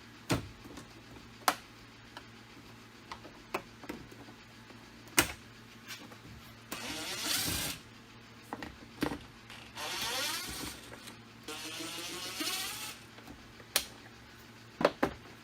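Hand work on a Jeep Wrangler JK door: a plastic trim piece being pulled off, with scattered sharp clicks and knocks and three scraping stretches of a second or so each, about seven, ten and twelve seconds in.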